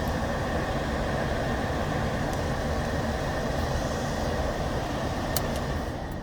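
Climate-control blower fan running on a high setting, air rushing steadily out of the defroster vents, with a small click near the end.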